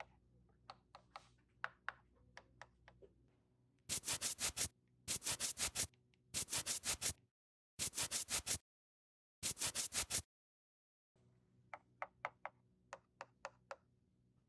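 Toy makeup powder applicator rubbed against a surface in quick strokes, in five short runs of about six strokes each. Light clicks of the plastic toy pieces come before and after.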